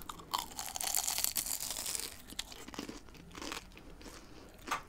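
A person biting into crispy breaded fried food right at the microphone and chewing it. A dense crunch lasts for the first couple of seconds, then quieter chewing follows with a few crisp clicks, one sharper near the end.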